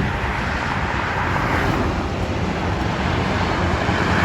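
Peterbilt semi-truck's diesel engine and tyres going by, a steady loud rumble and road noise that builds slightly as it comes on.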